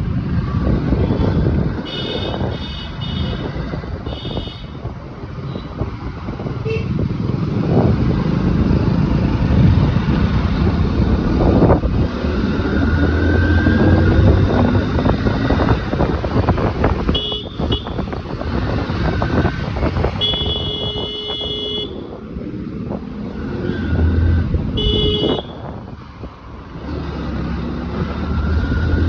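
Many motorcycle engines running in a dense group ride, with engines revving up now and then. Horns honk several times: quick repeated beeps early on and longer honks later.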